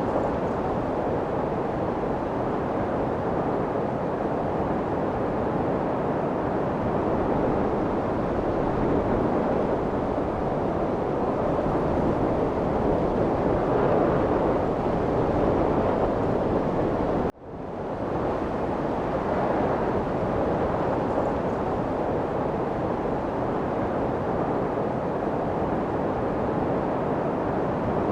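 Light wind blowing as a steady, even rush. It cuts out abruptly for a moment about seventeen seconds in and swells back within a second.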